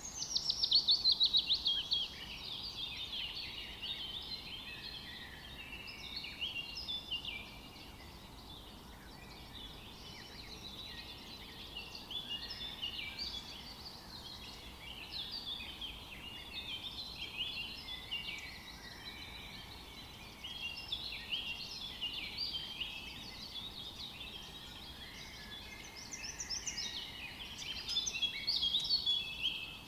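Several songbirds singing at once: dense, overlapping chirps and trills. A louder rapid trill falls in pitch at the start, and another comes near the end.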